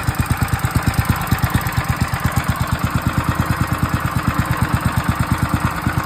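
Single-cylinder 208cc small engine, taken from a pressure washer and with its governor removed, running steadily at a low idle with even firing pulses about ten a second.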